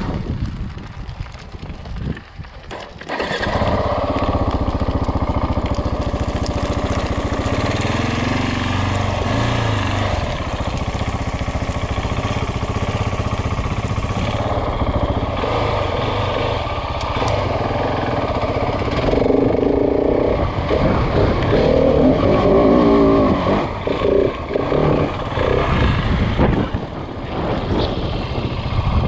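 KTM 690 Enduro's single-cylinder engine running as the bike is ridden. It is quieter at first and comes in loud about three seconds in, with revs rising and falling and a louder stretch past the middle.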